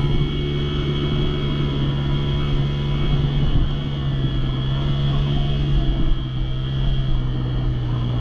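Dirt bike engine running at a steady pitch, with no revving or shifting.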